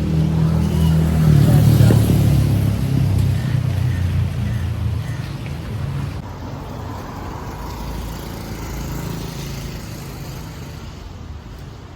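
A motor vehicle's engine running close by, loudest about two seconds in and then fading away as it passes.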